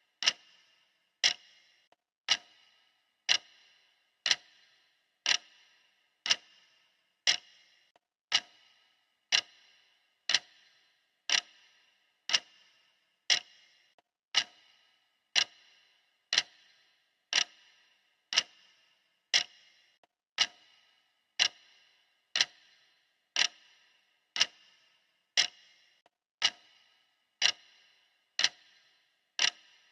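Classic clock ticking, steady and even at about one tick a second.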